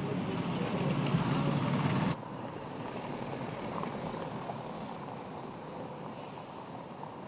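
Car running noise, a low rumble and rush, that cuts off abruptly about two seconds in. A quieter rushing noise follows and slowly fades.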